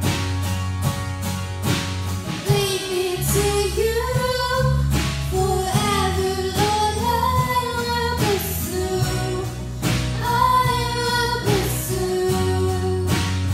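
Live worship band playing: a female voice singing over strummed acoustic guitars, electric guitar and a drum kit. The singing comes in about two and a half seconds in, after a short instrumental passage.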